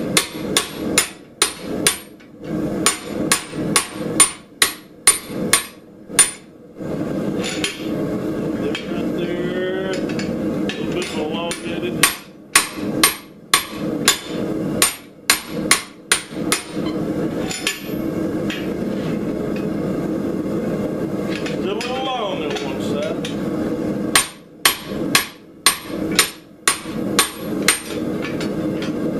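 Hand hammer striking a chop fuller to neck down hot Schedule 40 steel pipe, sharp ringing blows about two a second, in three runs. A steady drone fills the pauses between the runs.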